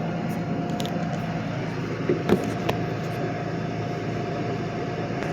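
An engine running steadily at idle, a constant hum with a few light clicks and knocks about two to three seconds in.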